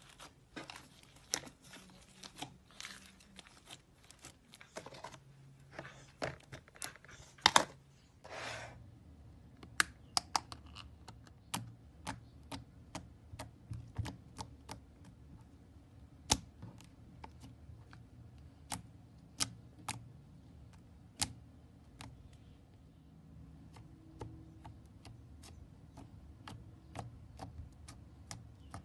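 Hand-played slime: squelching as the slime is squeezed and kneaded for the first eight seconds or so, then a run of sharp, sticky clicks and pops, about one or two a second, as fingers press, poke and pull away from the slime.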